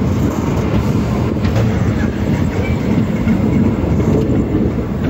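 Passenger express train rolling out of a station, heard from aboard: a steady, loud rumble of wheels on the rails with a few faint clicks.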